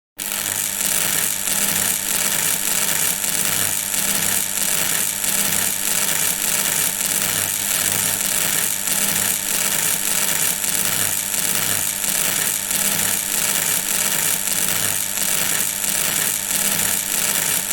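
A machine running steadily: a constant hum under a loud hiss, with a faint even rhythm.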